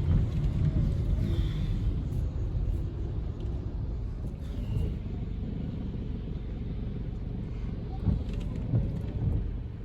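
Low, steady rumble of a car driving slowly, heard from inside the cabin, with two short thumps near the end.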